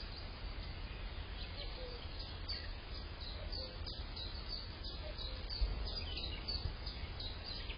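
Small birds chirping with many short, high calls over a steady low rumble and hiss.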